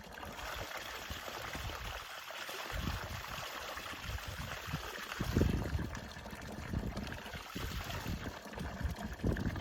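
Steady rushing of water, with irregular low rumbles beneath it.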